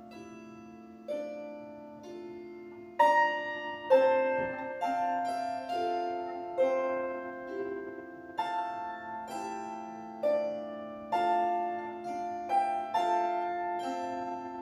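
Instrumental performance of an arrangement of a Russian folk song on a plucked string instrument: a melody and chords of notes struck and left ringing over a steady low note, becoming louder about three seconds in.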